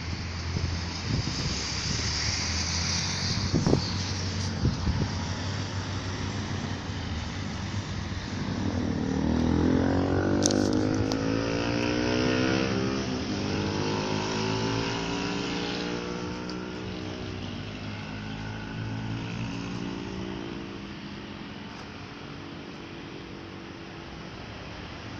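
A vehicle passing by: its pitch rises as it approaches, it is loudest about ten seconds in, and it falls away slowly after. Earlier there is a steady low hum and a couple of sharp knocks.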